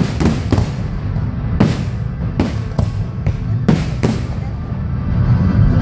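Fireworks exploding in the sky: a string of about nine sharp bangs at irregular intervals, over a steady low rumble, with music playing along.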